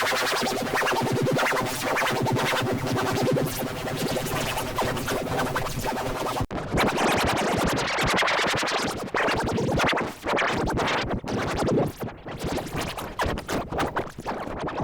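Effects-warped cartoon soundtrack: a dense, buzzing, music-like texture with scratch-like stutters. It breaks off abruptly about six and a half seconds in and turns choppier and more chopped-up for the rest.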